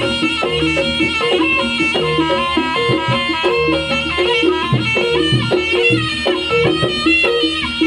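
Live Javanese traditional dance music: a reedy wind instrument plays a stepping melody over steady drumming and struck percussion.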